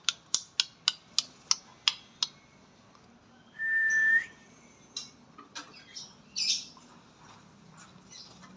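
A kept bird calling: a quick series of about ten sharp chips, then one held whistle, the loudest call, then a few scattered short calls.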